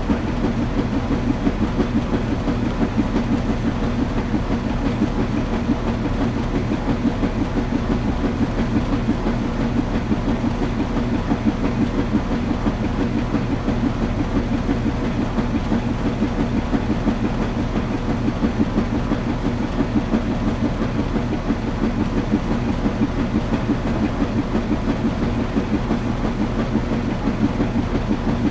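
Washing machine running: a steady low rumbling hum with a fast, even pulsing beat and a few faint steady tones above it.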